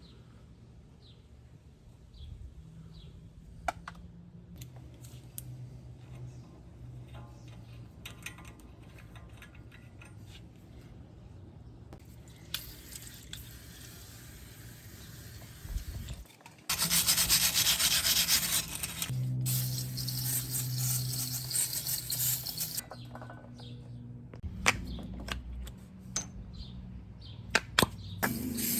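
Scraping and rubbing on metal brake parts during a front brake teardown. Past the middle comes a louder, steady grinding noise with a low hum under it that lasts about six seconds, and there are sharp knocks near the end.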